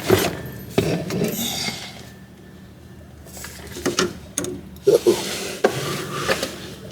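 Metal parts and hand tools being handled on a car's brake assembly: a series of sharp clanks and clicks with scraping between them, several close together in the second half.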